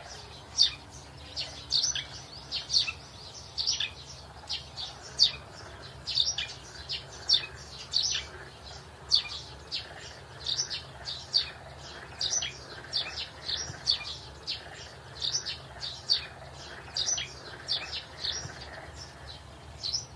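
Small birds chirping: short, high chirps, about two or three a second and unevenly spaced, over a faint steady low hum.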